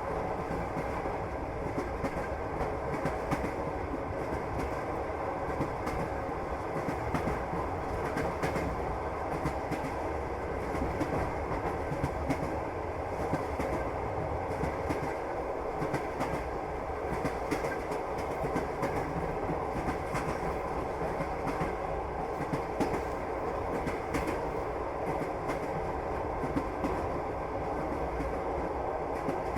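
Passenger train heard from inside the carriage, running along steadily: a continuous rumble with the wheels clacking repeatedly over the rail joints.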